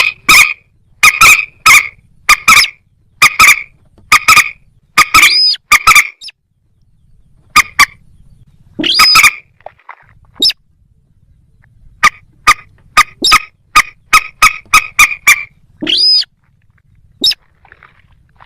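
Calls of a rail, as in moorhen and little crake recordings: loud, short, harsh notes repeated in quick runs of about two a second, broken by a few short pauses. A faster run comes in the second half.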